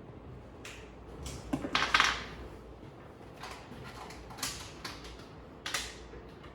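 A few short knocks and clatters, the loudest a rough clatter about two seconds in.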